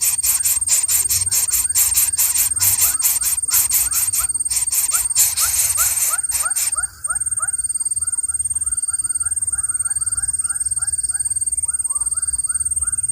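Young birds of prey cheeping rapidly and repeatedly, short rising chirps several times a second, with a brief break about halfway through.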